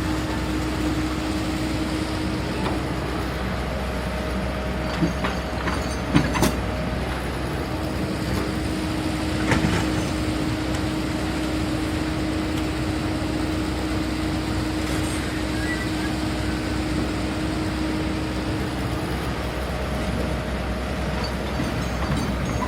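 CAT 320 GC hydraulic excavator running steadily, with a constant whine that drops away for a few seconds and returns. A few short knocks come about five to six seconds in and again near ten seconds.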